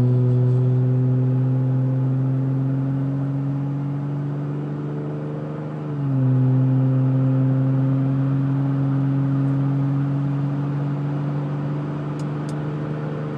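Exhaust drone from a 2010 GMC Acadia's 3.6-litre V6 with a Thrush muffler and the resonators deleted, heard inside the cabin under gentle acceleration in the 2100–2600 rpm range where it drones. The deep, steady tone climbs slowly in pitch, drops suddenly about six seconds in as at a gear change, then climbs again.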